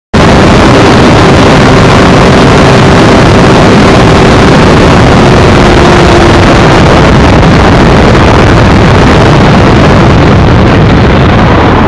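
Motorcycle engine running, loud and steady, with a faint hum under it that fades out a little after halfway.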